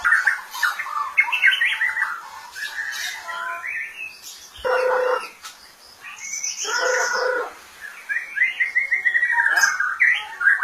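White-rumped shama (murai batu) singing a varied song of whistled phrases and trills, with a fast run of notes about eight seconds in.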